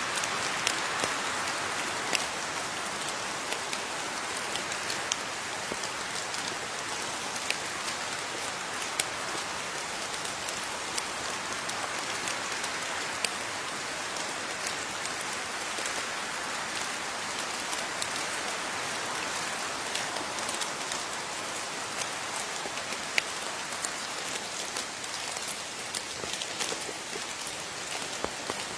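Steady rain falling on a surface, an even hiss with many separate drops ticking and pattering throughout.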